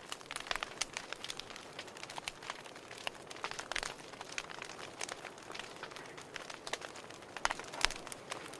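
Wood fire in a fireplace crackling, with irregular sharp pops over a soft steady hiss; a few louder pops near the end.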